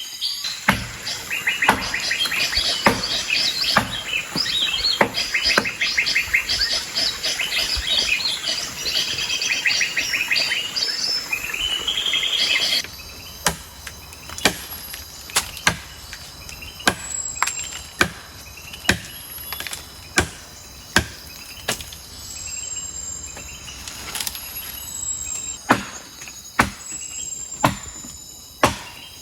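Birds chirping in a dense, fast chatter through the first half. After a sudden change about halfway, sharp knocks come about once a second, with a few faint high whistles.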